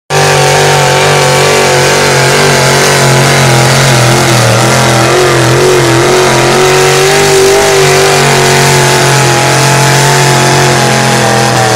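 Pulling vehicle's engine at high revs under load, running loud and steady with the pitch wavering slightly about halfway through.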